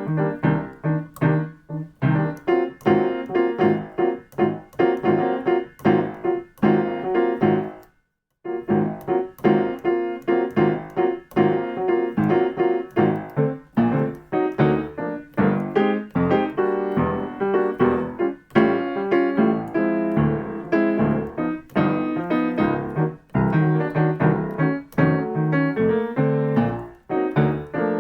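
Piano practising jazz comping rhythm patterns: short repeated chords in a steady pulse, with a brief stop about eight seconds in.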